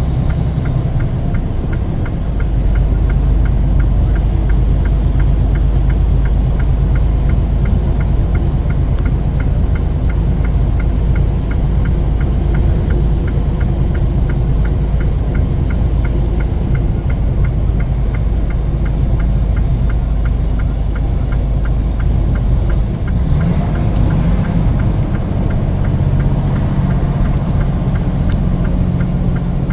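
Steady engine and road rumble heard from inside a moving vehicle's cab, with a fast, regular light ticking that stops about three-quarters of the way through.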